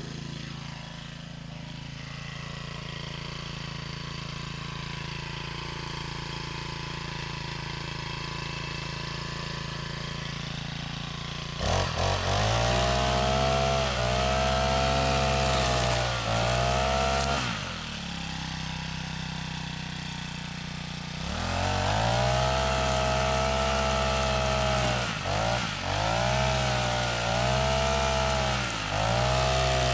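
Small petrol engine idling steadily, then revved hard over and over, with quick dips in speed between the revs. About halfway it settles back to idle for a few seconds before the revving starts again.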